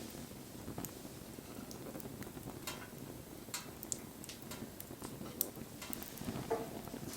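Wood campfire burning: a steady low rush of flame with irregular sharp crackles and pops from the burning wood.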